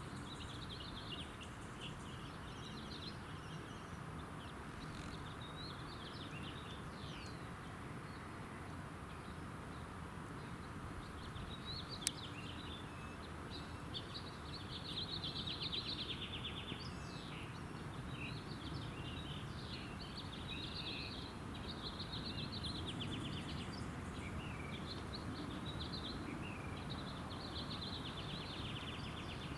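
Small songbirds chirping and singing, with repeated buzzy trills, over steady outdoor background noise. A single sharp click about twelve seconds in.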